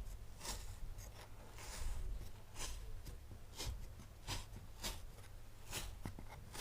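A knife slicing through kinetic sand in a series of short strokes, about one every half second to a second, over a low steady hum.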